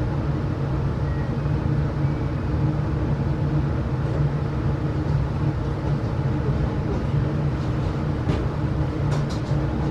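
Steady low rumble and hum inside a passenger coach of a diesel-hauled train, with a few light ticks near the end.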